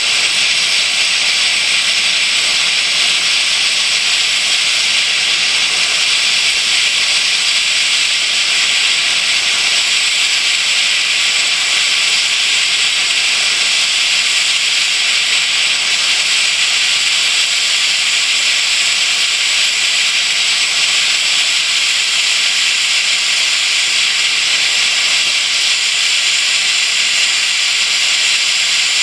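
Steady high hiss of steam jetting from a small homemade model boiler, running at full pressure for a power check.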